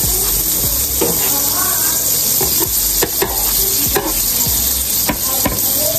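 Pancakes sizzling on a hot flat griddle, a steady frying hiss. A few sharp clicks in the second half come from a metal spatula touching the griddle.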